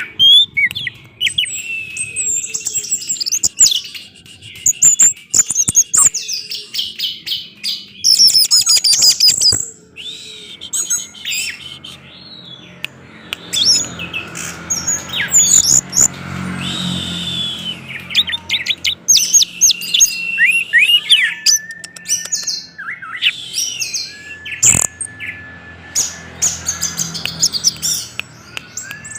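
Orange-headed thrush singing a full, loud song: rapid runs of clear whistled notes and trills, delivered in bursts with short pauses between them.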